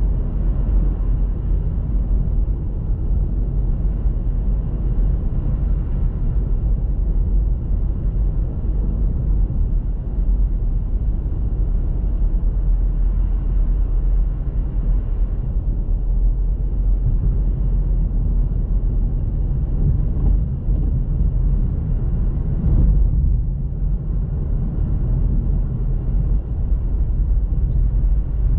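Car driving, with a steady low rumble of engine and tyre noise.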